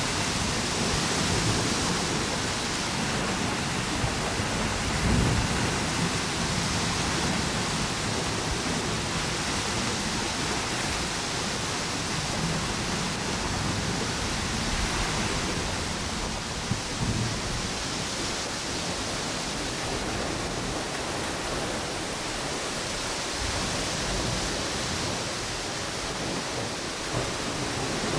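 Ocean waves breaking on a beach, mixed with storm wind blowing through palm trees: a steady rushing hiss with no breaks.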